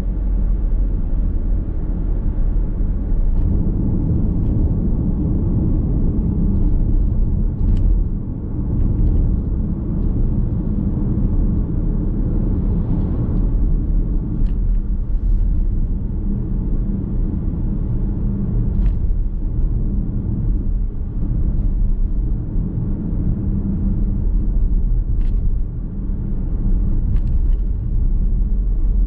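Car driving on a road, heard inside the cabin: a steady low rumble of tyre and road noise with the engine, with a few faint clicks.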